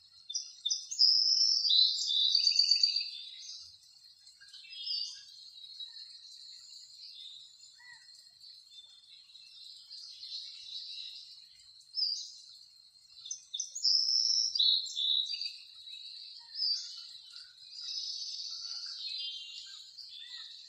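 Birds chirping in short phrases of high trills, loudest about a second in and again near the middle, over a faint steady high-pitched whine.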